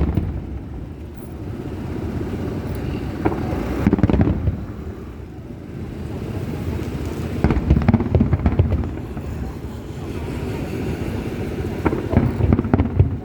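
Fireworks display: clusters of shell bursts and crackle come about every four seconds, four times, with a steady low rumble in between.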